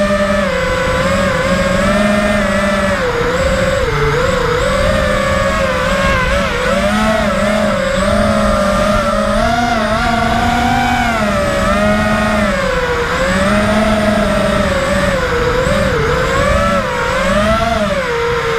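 FPV racing quadcopter's brushless motors whining, their pitch rising and falling continually with the throttle through the flight, dipping low near the end.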